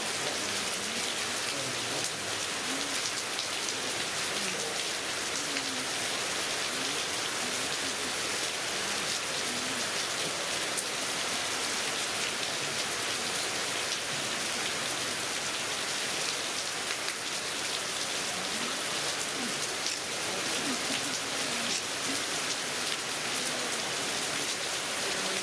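Heavy rain falling steadily, with the many fine patters of drops hitting surfaces.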